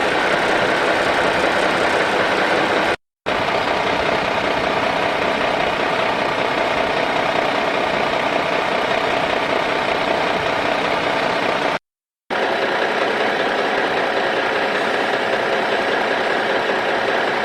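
A steady engine-like running sound at an even level, broken twice by brief cuts to silence, about three seconds in and about twelve seconds in.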